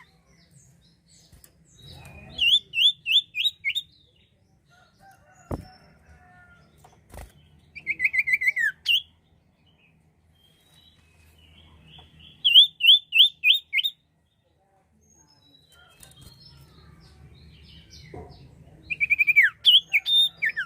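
Common iora (sirtu/cipoh) singing: four bursts of quick, high whistled notes, each phrase a rapid run of five or six short slurred notes, separated by pauses of a few seconds. Two sharp clicks sound between the first and second phrases.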